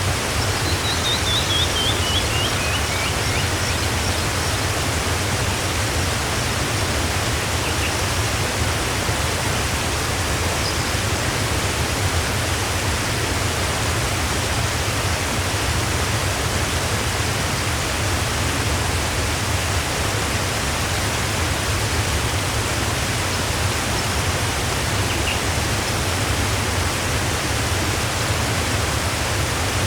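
A waterfall rushing steadily. About a second in, a bird gives a quick run of short notes that fall in pitch, and a few faint chirps follow later on.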